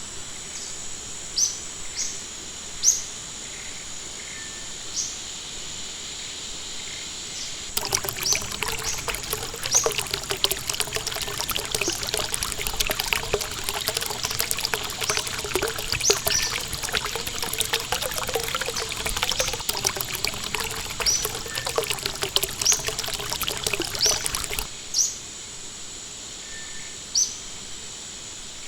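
Water trickling and splashing cuts in abruptly about eight seconds in and stops just as suddenly a few seconds before the end. Throughout, a small bird repeats a short high chirp every second or two over a steady high-pitched insect drone.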